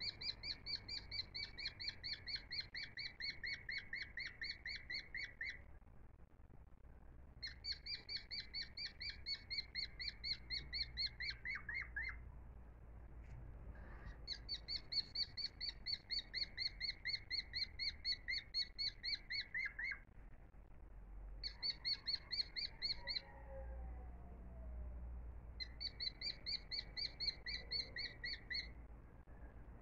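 A songbird calling in fast, evenly repeated chirping trills, about four or five notes a second. The trills come in five bouts of a few seconds each, with short pauses between, over a faint low hum.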